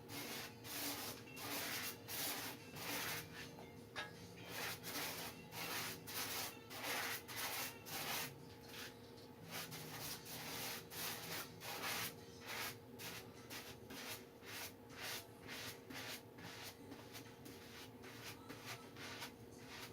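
Repeated rubbing strokes over glue-soaked tissue paper on a surfboard deck, about two a second and fading a little towards the end, as the wet paper is worked down onto the board.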